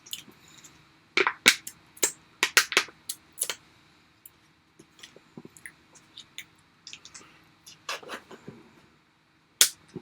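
Close-up mouth sounds of eating and licking: irregular wet smacks and clicks, several in quick succession in the first few seconds, then scattered ones and one sharper smack near the end.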